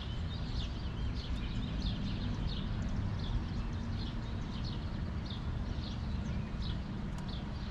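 A bird calling over and over in short, high, falling chirps, about two or three a second, over a steady low rumble.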